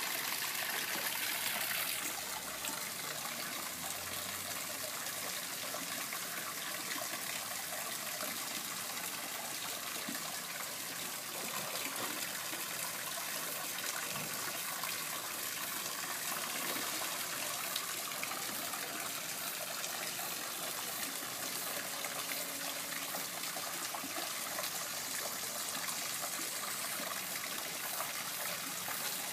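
Water trickling and splashing steadily in a garden koi pond, a little louder in the first two seconds.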